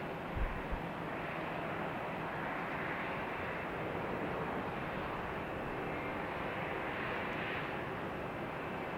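Steady rushing noise of an aircraft's engines, with a couple of short low thumps just under a second in.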